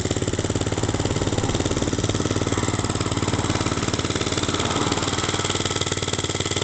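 KXD POR 50 mini bike's small 50cc engine idling steadily in a fast, even beat, just after being started.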